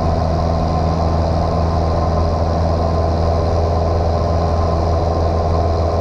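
Light single-engine airplane's piston engine and propeller droning steadily at constant power, heard inside the cockpit.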